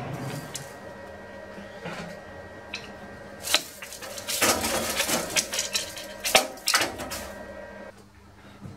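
Metal tools and workpieces being handled at a lathe: a run of clanks, clicks and knocks, thickest in the middle stretch, over a faint steady machine hum.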